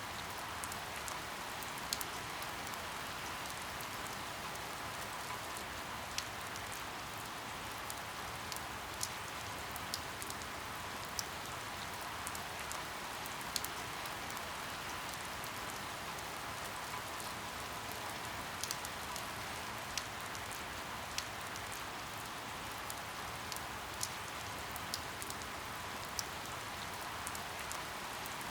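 Steady rain falling on a surface, an even hiss with sharp individual drop ticks scattered irregularly through it.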